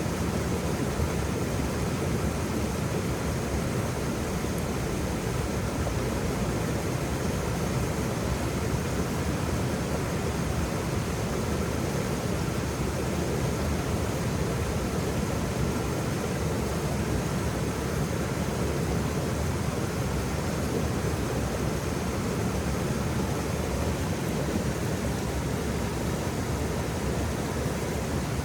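Waterfall, water falling and splashing in a steady, even rush with the most weight low down.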